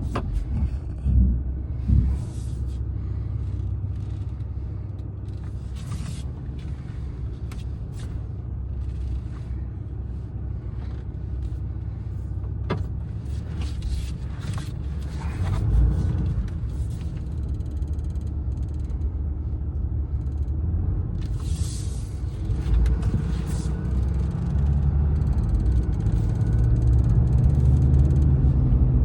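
A Bulletpoint Mounting Solutions phone charging cradle clicking and rattling irregularly in a moving car, over the steady low rumble of the car on the road.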